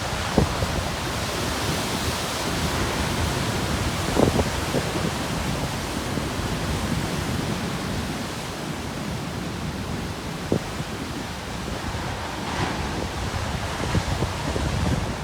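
Heavy ocean surf breaking and churning on a rocky shore: a steady rushing wash of water that swells a couple of times. Strong wind buffets the microphone with short low thumps, about 4 s and 10 s in.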